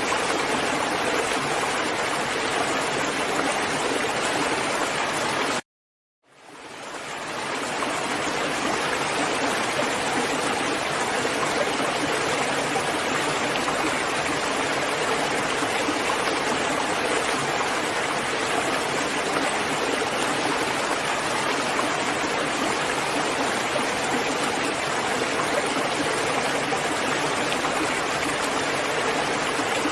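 Steady heavy rain, an even hiss. About five and a half seconds in it cuts out completely for under a second, then fades back up over a second or two.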